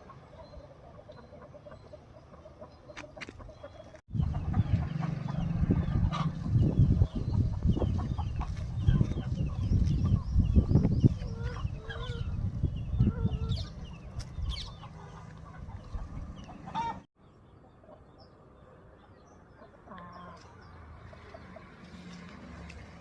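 Aseel chickens clucking and calling, many short calls overlapping. Through the middle a loud low rumble starts and stops abruptly.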